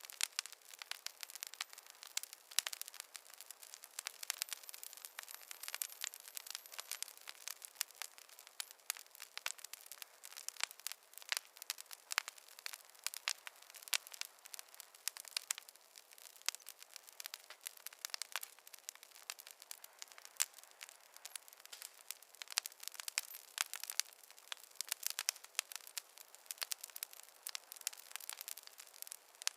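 Wood bonfire crackling: a dense, irregular run of sharp pops and snaps.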